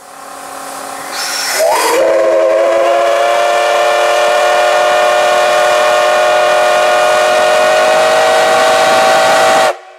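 Loud D51 steam locomotive whistle. Steam hiss builds, and the pitch sweeps up as the whistle opens about a second and a half in. It is then held as one long steady blast of several tones at once for about eight seconds and cuts off sharply near the end.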